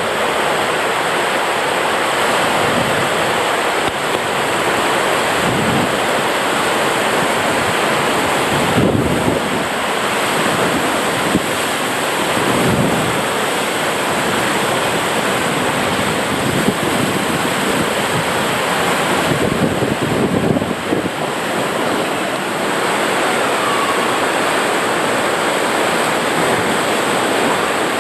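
Rushing water and an inflatable ride tube sliding down a water slide: a loud, steady rush with a few brief low bumps.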